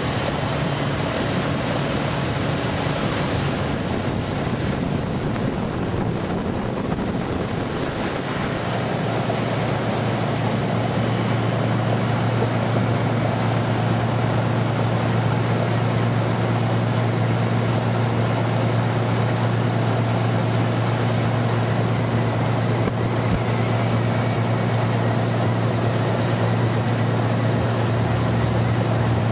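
A 250 hp FNM HPEP250 common-rail turbo diesel inboard runs with the boat under way, a steady low drone under wind and water rushing. The engine drone grows louder and fuller about nine seconds in.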